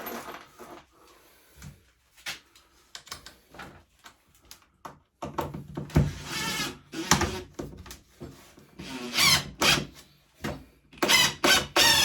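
Knocks, clicks and clatter of tools and metal parts being handled on a workbench. About five seconds in a steady low hum starts, with louder whining sounds over it towards the end.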